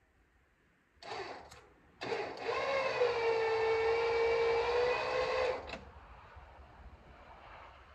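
Small portable electric air compressor (tire inflator) pumping up a tire. It gives a short burst about a second in, then runs with a steady hum from about two seconds in and cuts off suddenly near six seconds.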